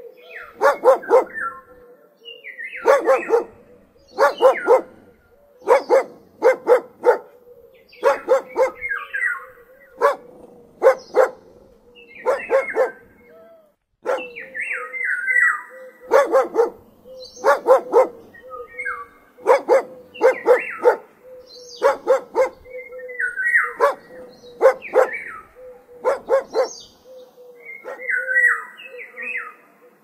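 A dog barking repeatedly, in short clusters of one to three barks every second or two.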